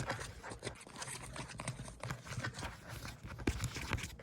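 Fingers scratching and rubbing through hair close to the microphone in a mock scalp examination: a dense, steady crackling.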